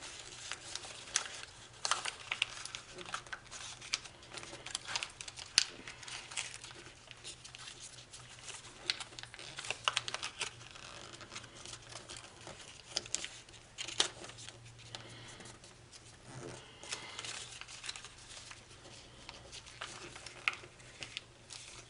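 A sheet of origami foil being handled and folded: irregular crinkling and sharp crackles as flaps are opened and pressed flat.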